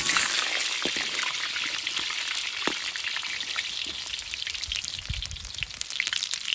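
Whole peeled potatoes frying in hot rendered fat in a large cauldron: a loud sizzle as they hit the fat, settling into steady crackling and spitting.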